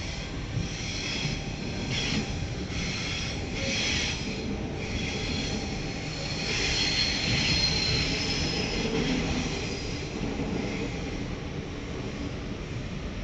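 Electric passenger train running, heard from inside a carriage: a steady low rumble, with the wheels squealing in several short high-pitched bursts over the first few seconds and a longer, louder squeal from about six to nine seconds in.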